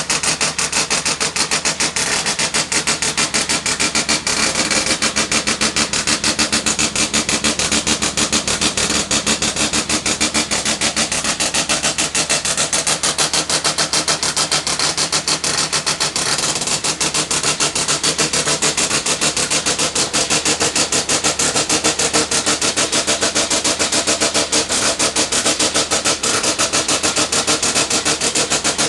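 Ford Escort Mk2 rally car's engine running at a steady idle, its exhaust pulsing evenly.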